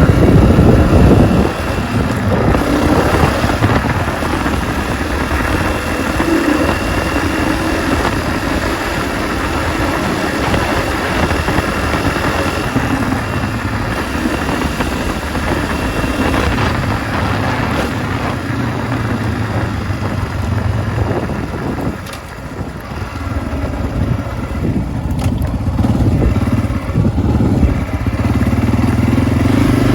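Honda CRF250F dirt bike's single-cylinder four-stroke engine running under varying throttle while being ridden on a trail. It eases off about 22 seconds in, then picks up again toward the end.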